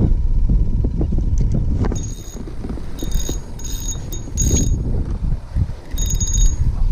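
Wind buffeting the microphone in a steady low rumble, with five short, high-pitched chirps coming in over it from about two seconds in.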